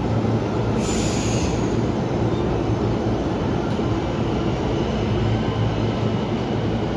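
JR East 209 series 1000 electric train running: a steady rumble with a low hum, and a brief high-pitched squeal about a second in.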